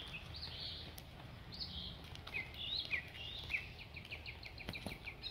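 A songbird singing: short high whistled notes that slur downward, breaking into a quick run of repeated chirps near the end.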